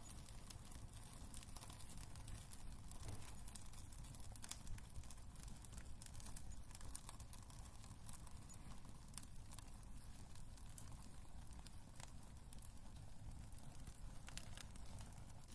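Wood fire crackling in a fireplace: scattered sharp pops and crackles, irregular and of varied strength, over a steady low rumble.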